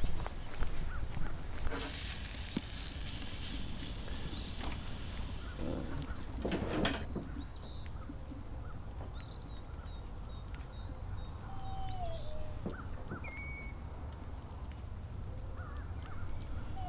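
Scattered short bird chirps and calls, including a few falling whistled notes, over a steady low rumble. A burst of rustling noise comes about two seconds in, and a shorter one near seven seconds.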